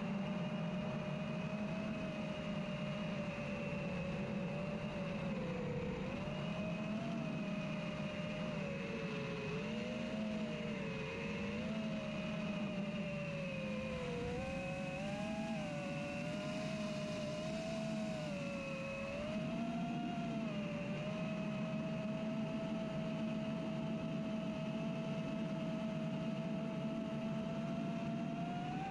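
FPV racing quadcopter's electric motors and propellers whining in flight, the pitch dipping and wobbling with the throttle through the middle, then holding steady.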